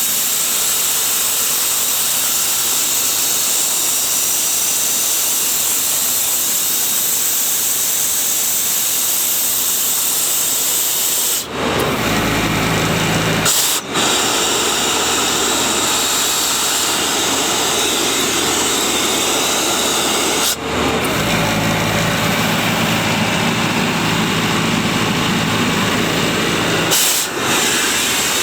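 Kaeser M114 portable diesel screw air compressor running, with compressed air blowing off in a loud, steady hiss. The hiss drops out briefly a few times, and the engine's low hum comes through more plainly for a while after about twelve seconds and again after about twenty-one seconds.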